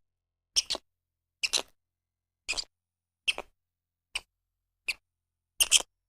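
A quokka chewing a fresh leaf: about seven short, crisp crunching bites, roughly one a second, with silence between.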